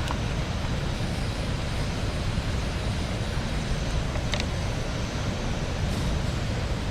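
Water rushing steadily over a small river dam, an even continuous noise. A brief faint high chirp sounds about four seconds in.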